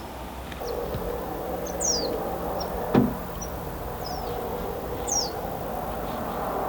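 A small bird calling: a high, quickly falling note repeated every three seconds or so, with a few short faint chirps, over a steady background hum. A single sharp knock about three seconds in.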